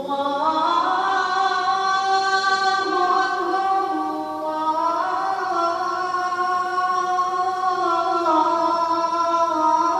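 A young boy reciting the Quran in a melodic chanted style, one high voice holding long sustained notes that slide slowly from one pitch to another.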